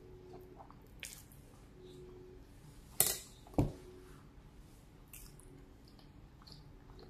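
Close-miked chewing of spaghetti, soft wet mouth clicks. About three seconds in come two loud clatters, half a second apart, as the plastic fork is set down on the disposable plate.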